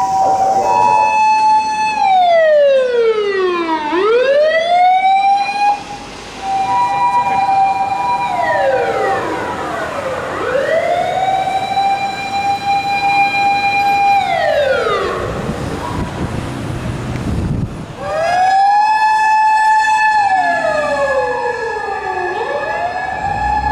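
Japanese emergency vehicle sirens wailing: each holds a high tone for a few seconds, then drops steeply and climbs back up, over and over, as one vehicle after another passes. A low vehicle rumble comes in near the middle.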